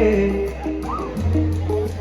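Live band music: a Hindi rock band plays a short instrumental stretch between sung lines, with held bass notes under guitar.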